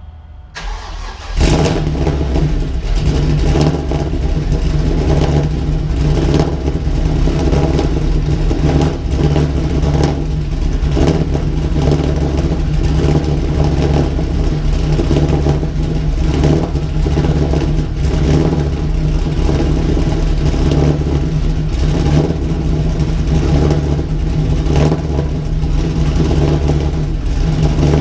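Chevrolet Camaro engine cold-started: a short crank, then it catches about a second and a half in and keeps running steadily.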